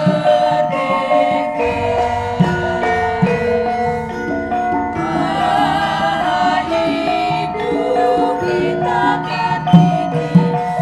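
Javanese gamelan ensemble playing, its bronze mallet instruments ringing out a steady melody, with voices singing over it.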